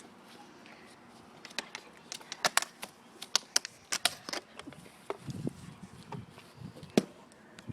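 A candy wrapper being handled and unwrapped, giving irregular sharp crackles and clicks that are thickest in the middle seconds.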